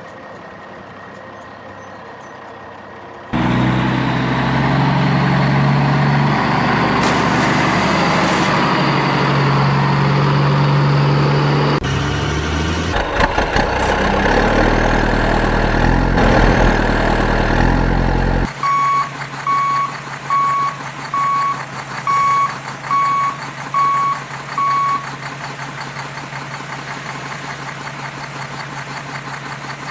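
Engine sound effects from a toy construction vehicle: a loud steady engine hum starting a few seconds in, turning rougher for a while. It then settles into a quieter hum under a run of about nine reversing beeps.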